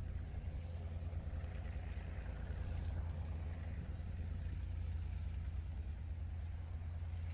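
Diesel locomotive engines running with a steady low rumble.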